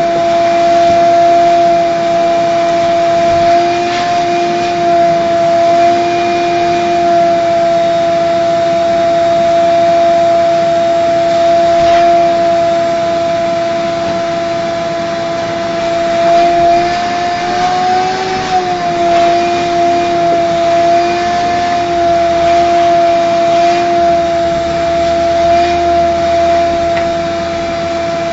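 Vacuum cleaner running steadily while vacuuming a car interior, with a strong steady whine; its pitch rises briefly about two-thirds of the way through, and a few light clicks come through.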